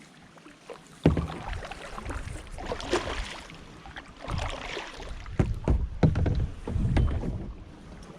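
Kayak paddle strokes splashing in the water, with sharp knocks among them, as the kayak backs out. A low rumble on the microphone begins about a second in.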